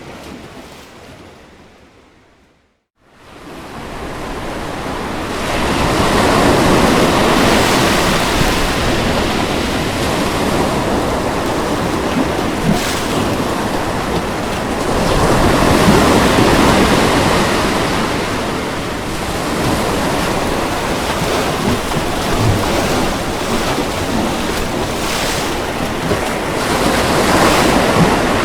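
Ocean surf washing onto a beach, a steady rushing wash that swells and eases every several seconds. About three seconds in, the sound fades almost to silence and then builds back up.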